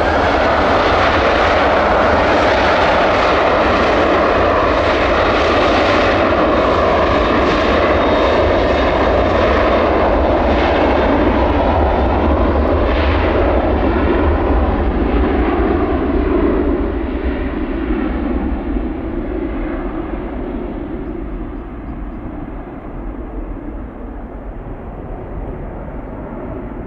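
Jet airliner's engines running loud as it passes close, then fading as it moves away, the hiss dying off first over the last ten seconds.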